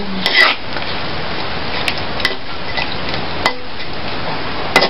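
Vegetables sizzling in a wok over a wood fire, with a steady hiss, and a spatula clicking and scraping against the pan a few times as they are stirred.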